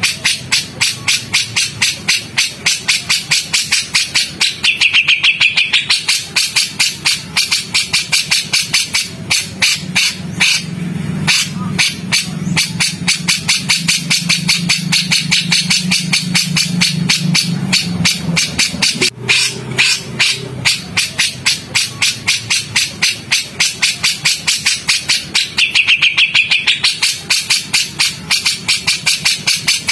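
Songbird training recording: a rapid train of harsh, clipped call notes repeated about four times a second, the rough 'tembakan' calls used to teach murai batu (white-rumped shamas).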